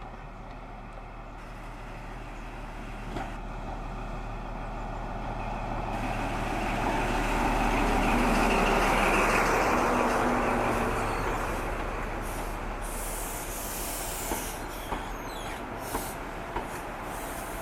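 A preserved InterCity 125 HST passing by, its noise swelling to a peak about halfway through and then fading, with a few sharp clicks near the end.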